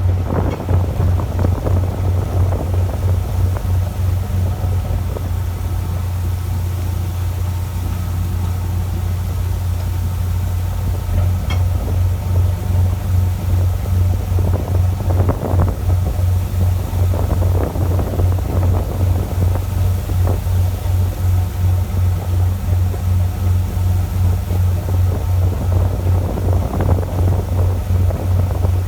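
A fishing boat's engine running with a steady, fast low throb. Brief washes of water or wind noise come and go over it.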